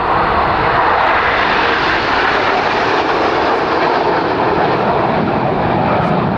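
Formation of Red Arrows BAE Hawk T1 jets flying past, a loud steady rushing jet-engine noise that swells in at the start and eases slightly near the end.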